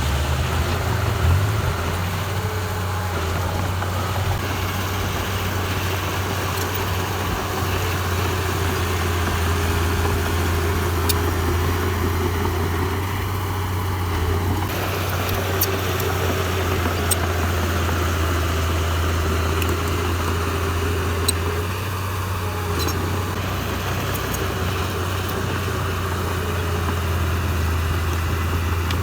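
Diesel engine of heavy earthmoving equipment running steadily at a low, even speed, with a few faint light clicks here and there.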